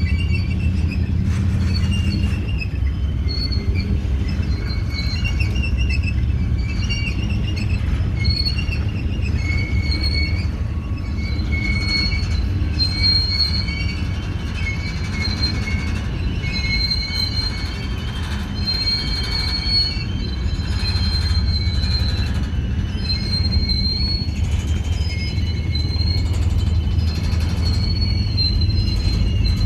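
Freight train cars rolling slowly past with a steady low rumble and repeated high-pitched squealing from the running gear, the squeal wavering in pitch and coming and going every second or so.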